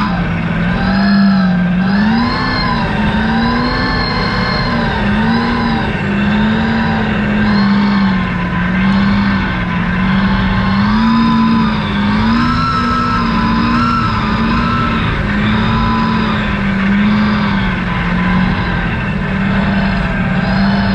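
Truck engine running under load while driving, its pitch rising and falling every second or two as the throttle is worked on and off, over a steady low rumble.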